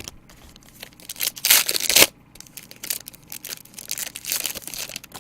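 Trading-card pack wrapper being torn open with a loud rip that stops sharply about two seconds in, followed by lighter crinkling and rustling as the wrapper and cards are handled.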